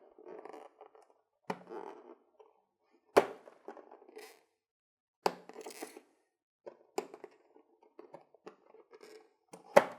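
Cardboard packaging being opened and handled: a few sharp taps and thunks, the loudest about three seconds in and again near the end, with light rustling between them.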